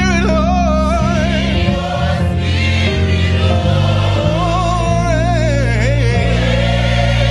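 Gospel worship music: a choir and a lead voice sing long, wavering notes over steady, sustained low chords.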